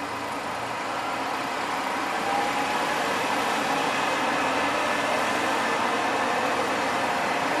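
Sanriku Railway diesel railcar crossing a high concrete arch bridge: steady engine drone and running noise, growing a little louder about two seconds in.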